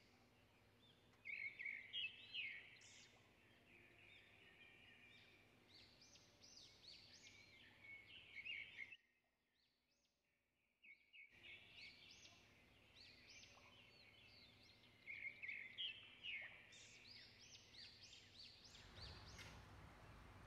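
Faint birds chirping in quick repeated runs of high notes. The sound drops out entirely for about two seconds midway, and a faint rushing noise comes in near the end.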